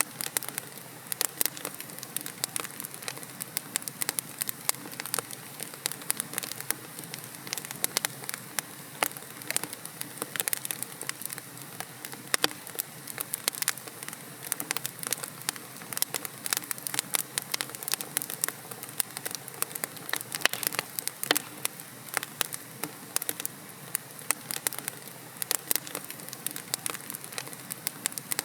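Wood logs burning in a fireplace, with dense, irregular crackles and pops over a steady hiss.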